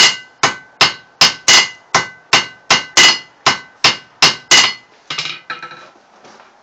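Hand hammer striking hot round bar on an anvil, forging one end square: about a dozen ringing blows, two to three a second, then a few lighter taps before stopping near the end.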